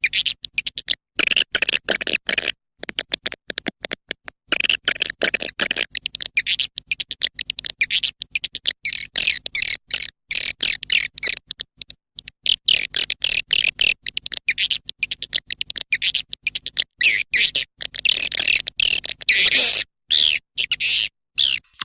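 Swiftlet calling recording: dense, rapid high twittering chirps in choppy bursts with many brief gaps, over a faint steady low hum. This is the kind of lure call played to draw swiftlets into a nesting house.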